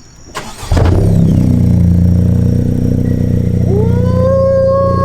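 Honda Civic Si's 1.5-litre turbocharged four-cylinder starting about a second in, breathing through a freshly fitted MAP Performance cat-back exhaust, then idling steadily. Near the end a long pitched tone rises and then holds over the idle.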